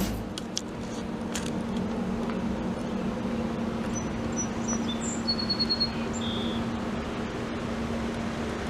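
Steady mechanical hum with a constant low tone under an even noise, and a few short high chirps a little past the middle.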